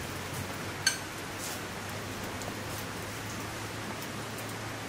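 Steady light rain falling, with one sharp metallic clink about a second in.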